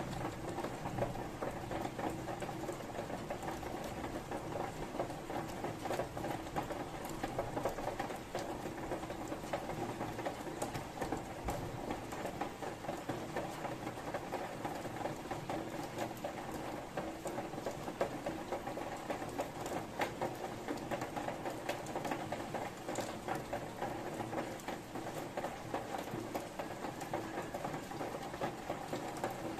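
Steady rain falling, with a dense patter of many small drops.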